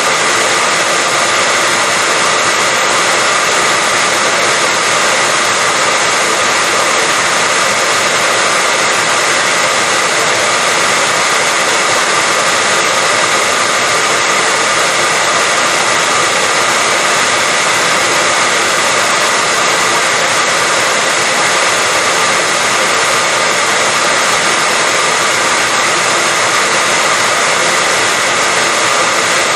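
Hair dryer running steadily: an even rush of air with a steady high motor tone.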